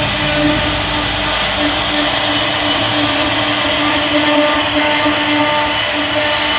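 High-speed CNC router spindle carving a wooden bed panel, running steadily with a constant hum under a dense cutting hiss.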